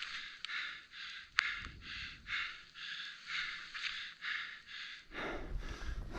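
A skier breathing hard in rhythmic hissing puffs, about two a second. From about five seconds in, a low rumbling wind noise on the microphone joins them.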